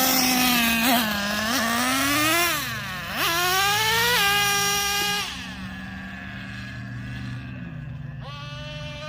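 Traxxas Revo 3.3 RC monster truck's TRX 3.3 nitro two-stroke engine revving up and down while being driven, climbing to a high steady whine for a second or so before the pitch drops back. It falls to a quieter, lower running note about halfway through, then revs up again near the end.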